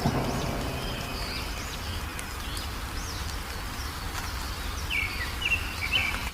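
Small songbirds chirping in short, quick notes over a steady low rumble and hiss, with a run of quick chirps near the end.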